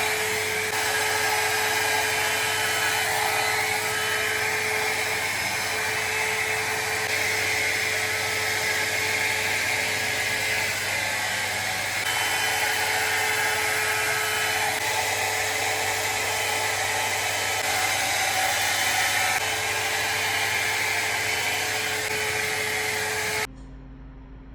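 VGR 493 hot air brush running, a steady fan whoosh with a constant motor hum, cutting off suddenly near the end.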